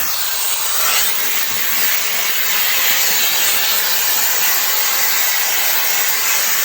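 Shark FlexStyle air styler running as a hair dryer: a steady rush of blown air that gets a little louder about a second in.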